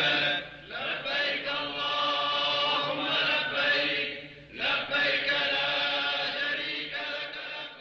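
Voices chanting in long, sung phrases, with short breaks just after the start and about four and a half seconds in.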